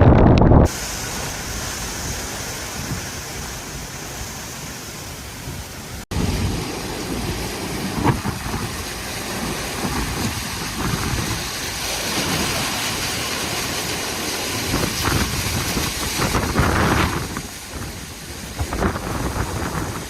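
Hurricane wind and rain, a steady hiss that changes abruptly about a second in and again about six seconds in, then turns gusty with irregular knocks.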